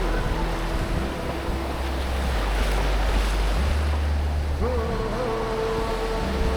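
Ocean surf washing on a beach, with wind noise on the microphone.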